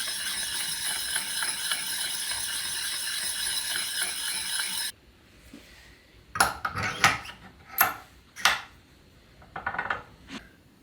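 Bronze gearbox bush being sanded by hand on a diamond block, a steady scraping that stops suddenly about five seconds in, taking the bush down to bring the gear end float within spec. Then a few short metal clinks and knocks as the parts are handled.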